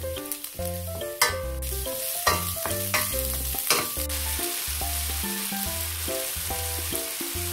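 Garlic, onion and cherry tomatoes frying in oil in a stainless steel pan, a steady sizzle, with a few sharp knocks in the first half as a wooden spoon stirs them. Background music plays throughout.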